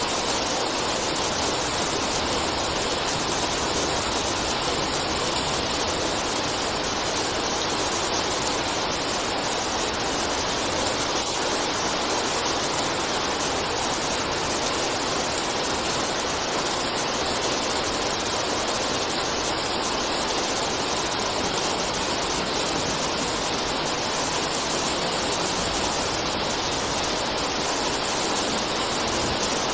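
Steady rain: an even, unbroken hiss with no separate drops standing out.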